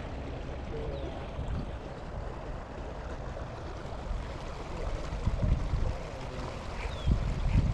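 Water lapping and gurgling around a small fishing boat, with low gusts of wind buffeting the microphone in the second half.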